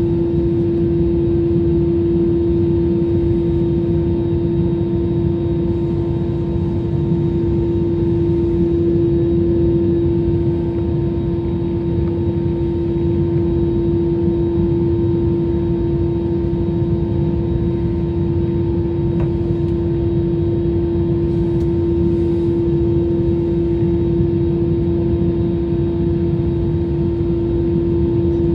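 Steady jet-engine drone heard inside an airliner cabin: a low rumble with one strong, unchanging hum above it.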